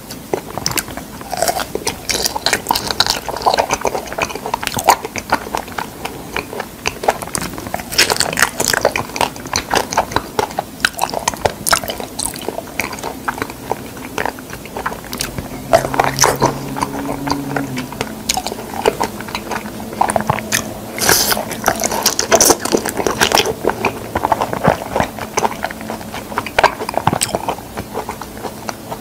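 Close-miked biting and wet chewing of fresh figs, with many small mouth clicks throughout and a short low hum about halfway through.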